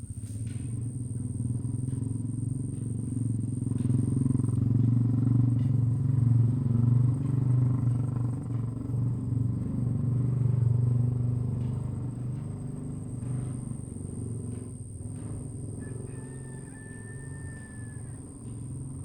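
Low engine rumble of a passing motor vehicle, swelling over several seconds and then fading away. A faint steady high whine runs underneath, and a brief high whistle sounds near the end.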